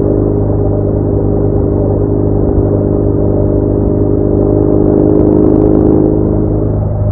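BMW R1200R flat-twin boxer engine running at a steady speed while riding, with road and wind noise behind it.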